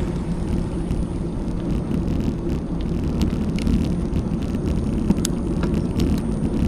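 Steady low rumble of riding wind buffeting an action camera's microphone together with bicycle tyres rolling on a back road, with scattered light ticks and rattles.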